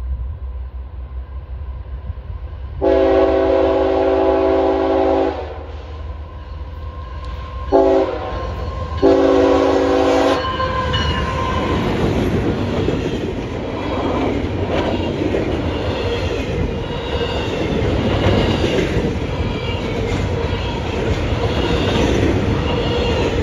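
Locomotive air horn sounding three chord blasts: a long one, a short one, then another long one. After the horn the train passes, with a steady loud rolling rumble of the wheels on the rails.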